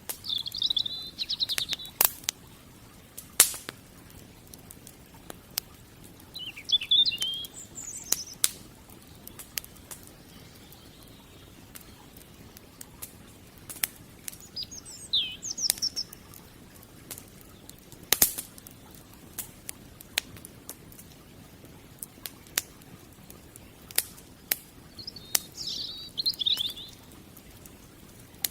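Wood fire crackling, with scattered sharp pops over a low hiss. A small songbird sings several short chirping phrases in between.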